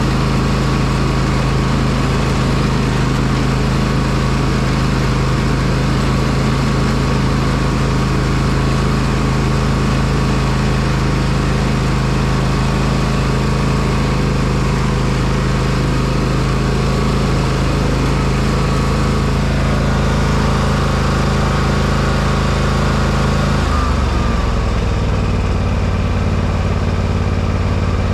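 Small petrol engine running at a steady speed, dropping to a lower speed about 24 seconds in.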